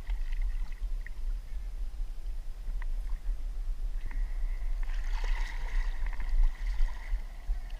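Yamaha SuperJet stand-up jet ski engine running on the water, with a faint whine that grows busier about five seconds in, over a steady low rumble.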